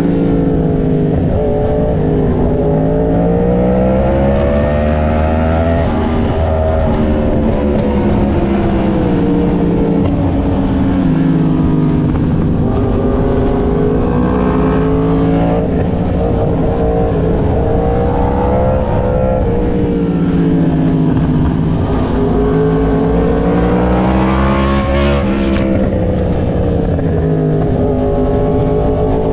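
A superbike's engine runs hard throughout, its pitch rising and falling smoothly every few seconds as the throttle is worked up and down.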